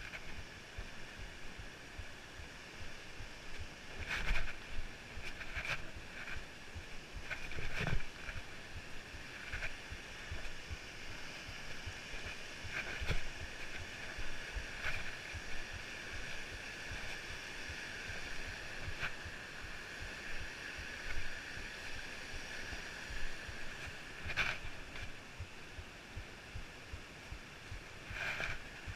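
Footsteps and knocks of someone hiking up a rocky trail, heard through a GoPro's muffled audio, with a steady high-pitched drone and wind rumble behind them.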